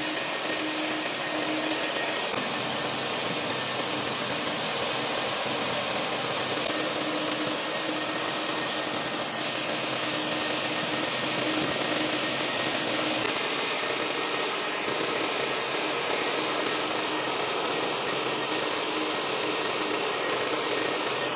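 A vacuum used for dryer-vent cleaning running steadily, a continuous rushing hiss of suction with a faint low hum under it.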